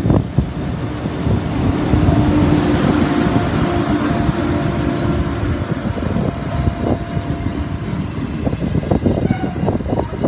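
Freight train rolling past, a continuous low rumble with wheels clattering irregularly over the rail joints. A faint steady hum runs through the middle of it.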